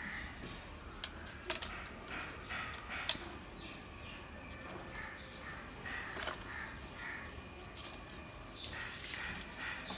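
A bird calling with short harsh calls, repeated every second or so, among a few sharp clicks or knocks.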